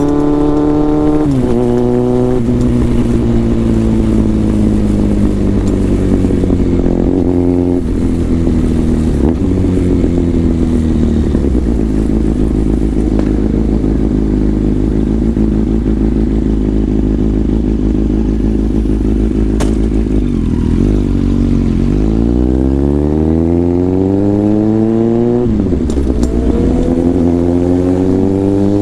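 Motorcycle engine under way. The revs climb and drop sharply at quick upshifts in the first few seconds, ease down and hold fairly steady through the middle, then climb in a long rise from about 21 s with another quick shift near the end.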